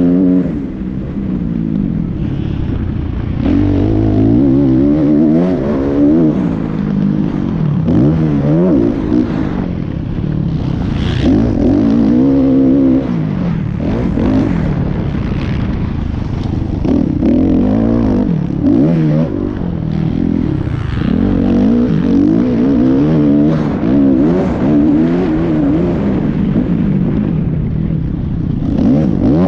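Motocross dirt bike engine revving, its pitch climbing and falling again and again, every second or two.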